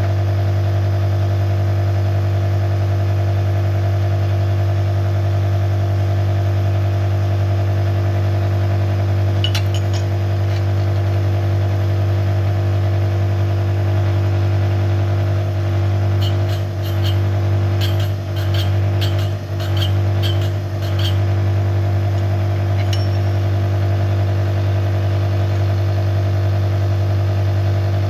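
Connecting-rod cap grinder running with a steady hum as it resurfaces the rod and cap mating faces. A short run of light clicks comes about two-thirds of the way through.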